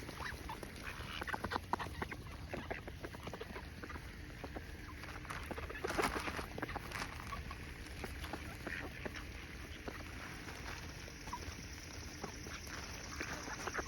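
A flock of ducks quacking quietly, among scattered short clicks, with a louder stretch of calls about six seconds in.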